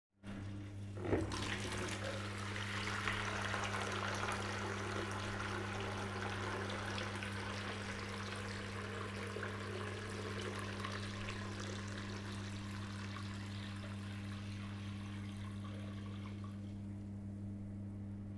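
Water rushing through a front-loading washing machine over a steady low hum. The water noise starts with a sharp click about a second in and fades out near the end, leaving the hum.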